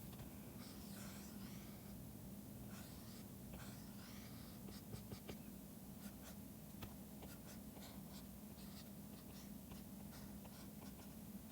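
Faint scratching and tapping of a stylus pen on a drawing tablet: many short strokes and light ticks, over a steady low hum.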